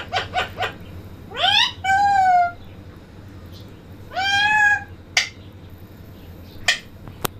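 Pet parrot giving a quick run of short calls, then several drawn-out meow-like calls that sweep upward and hold their pitch. A few sharp clicks come near the end.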